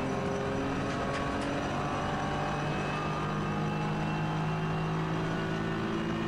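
BMW E46 325ti Compact's straight-six race engine heard from inside the cabin, pulling steadily under full throttle with its pitch slowly climbing.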